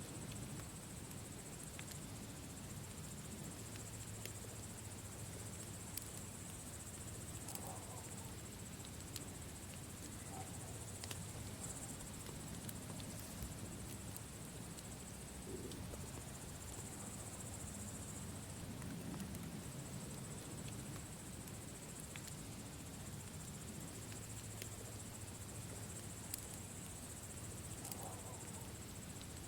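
Campfire crackling with scattered sharp pops, over a steady high chirring of crickets.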